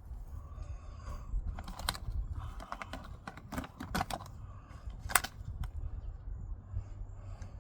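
Irregular light clicks and rustles of hands at work planting seeds close to the microphone, the sharpest click about five seconds in, over a low steady rumble.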